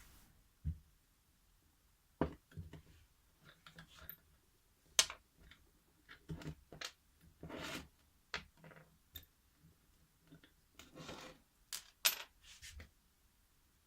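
Scattered clicks, taps and short scraping rubs of small parts and tools being handled, at irregular intervals.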